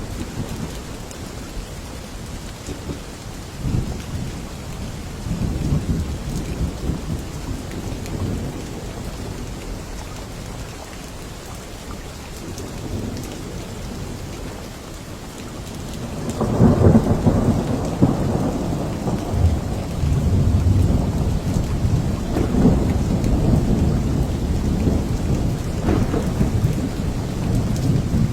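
Steady rain with thunder: low rumbles come and go, then a long rolling rumble swells up a little past halfway and carries on loudly to the end.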